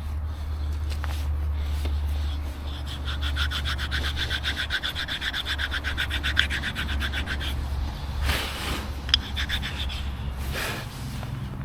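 A hand tool working on the car gives a fast, even run of rasping clicks lasting about four and a half seconds, then a few shorter scrapes and a sharp tick, over a steady low hum.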